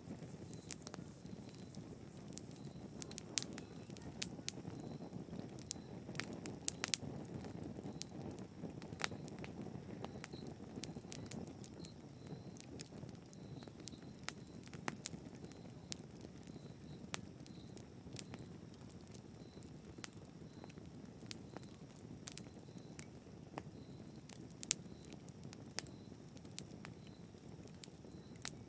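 Fire burning in a fireplace: irregular sharp crackles and pops, scattered several a second, over a low, steady rush of the flames.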